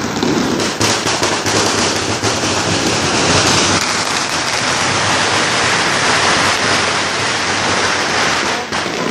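Firecrackers going off in a dense, continuous crackle: a loud hiss of many small pops with sharper cracks scattered through it, easing slightly near the end.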